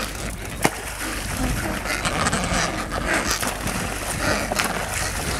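Sea and wind noise with a steady low rumble on the microphone, a single sharp click just under a second in, and several short splashing rushes as Adélie penguins drop into the water.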